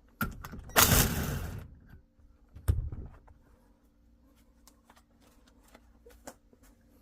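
Handling noise from engine parts and tools during an engine teardown: a harsh rasping scrape lasting about a second, then a single dull thud, followed by light clicks.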